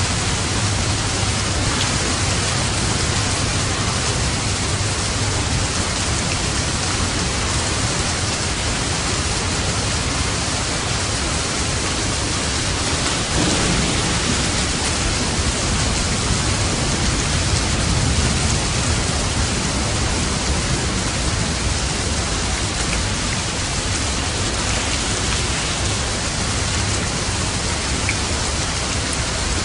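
Steady, heavy rain falling as a dense, even hiss. A low rumble underneath swells near the start and again around the middle.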